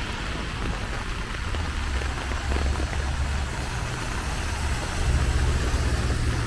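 Low rumble of road traffic with a light hiss of rain, growing louder about five seconds in.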